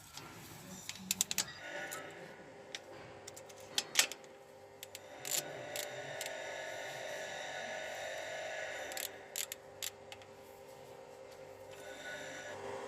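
Scattered metallic clicks and clinks of hand tools working on the engine's rocker-arm hardware, over a steady mechanical hum.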